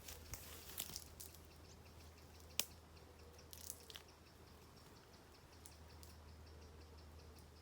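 Near silence broken by a few scattered soft clicks, one a little sharper about two and a half seconds in. From the middle on there is a faint, fast, even ticking.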